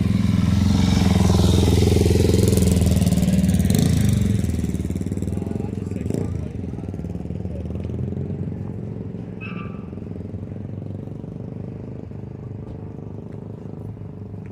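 A vehicle engine running close by, loud for the first four seconds and then fading away as it moves off, leaving a low engine hum.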